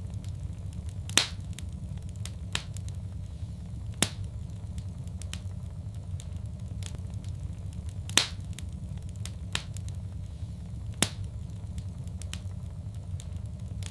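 Fireplace wood fire crackling: sharp, irregular pops, four loud ones a few seconds apart with smaller ticks between, over a steady low rumble of the burning fire.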